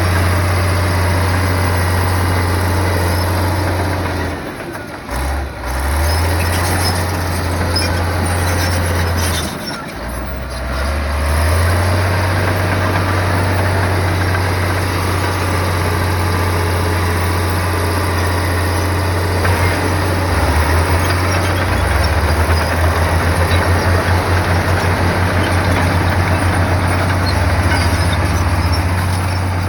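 Heavy bulldozer's diesel engine running hard with a steady low drone. It drops off briefly about five seconds in and again about ten seconds in, then picks up. Near the end the drone pulses quickly.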